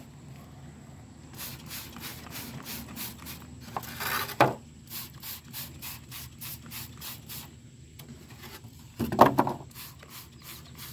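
A hand trigger spray bottle squeezed over and over, a quick hiss of cleaner with each pull, about four a second, with a short break near the end. Twice a louder knock of handling breaks in.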